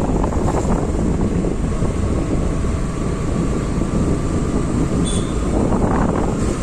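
Wind rushing over the microphone along with a motorbike running at speed on a road, a steady loud rumble with a faint engine whine. There is a brief high chirp about five seconds in.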